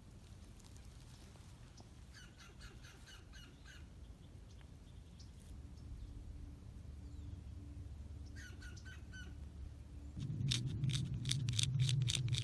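Runs of short, rapidly repeated chattering calls from an animal, several a second, coming in three bouts with the last one loudest. A low steady rumble lies underneath and grows louder near the end.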